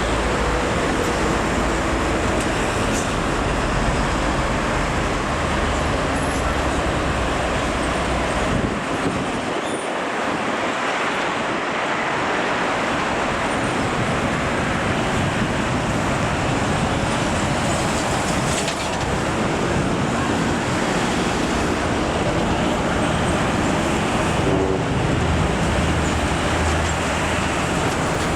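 Road traffic noise: heavily loaded trucks and other vehicles running past, a steady mix of engine and tyre noise. The low rumble drops away for a few seconds about ten seconds in.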